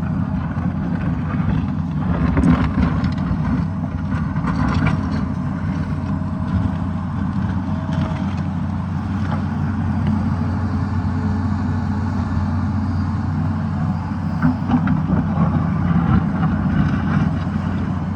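Tata Hitachi excavator's diesel engine running steadily under load while digging, with bursts of scraping and knocking from the bucket working rock and soil a couple of seconds in and again near the end.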